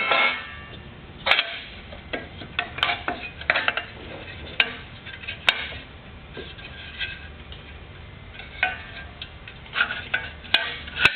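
Irregular metal clinks and knocks as the chop saw's removable tray and parts are fitted back in place, loudest at the start and again near the end.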